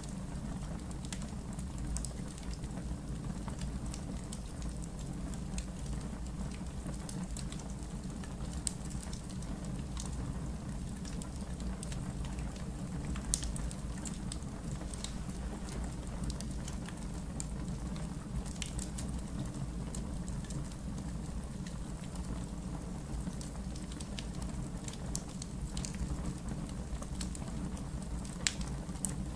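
Wood fire crackling in a fireplace: a steady low rumble of burning logs with irregular sharp crackles and pops, one louder pop about halfway through and another near the end.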